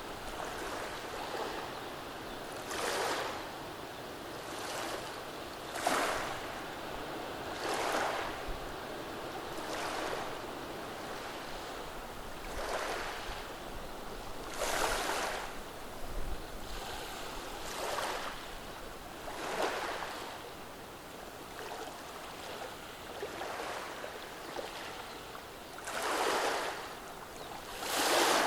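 Small calm-day waves washing over a beach of rounded stones: a steady wash of water through the stones, with a hissing surge every two to three seconds as each wave breaks and draws back.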